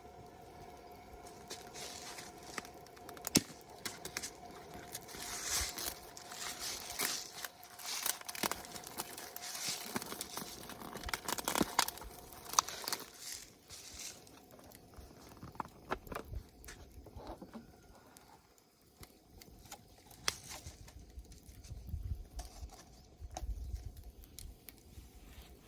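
Rustling and crinkling handling noise with many sharp clicks, busy in the first half and sparser later, with a few low thumps near the end.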